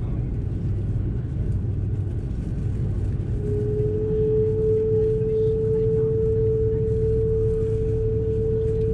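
Steady low rumble inside the cabin of a parked Airbus A330-300, with a steady mid-pitched whine joining about three and a half seconds in.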